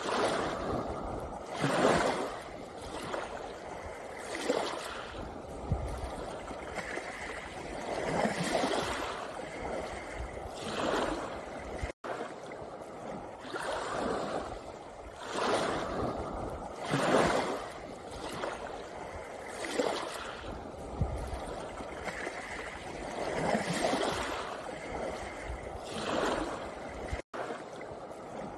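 Small sea waves breaking and washing up a pebble beach, a fresh surge of wash every two to three seconds. The sound drops out for an instant twice.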